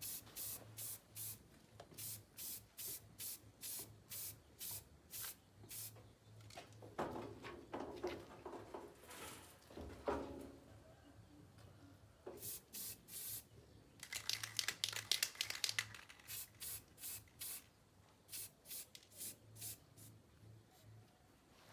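Hand scrubbing or sanding of metal with an abrasive, in even back-and-forth strokes about three a second. The strokes quicken for a couple of seconds past the middle, and there is some knocking and clatter of handling a little before the middle.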